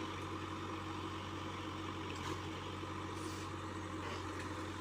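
ACE DI 6565 tractor's diesel engine running at a steady speed with an even hum.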